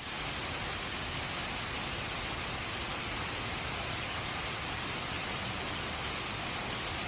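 Rain falling steadily, an even hiss with no breaks or separate drops standing out.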